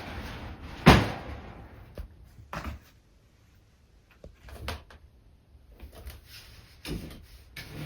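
Thumps, knocks and scuffling of a Munchkin kitten and an older cat play-fighting and chasing, with a loud bang about a second in and several smaller knocks after.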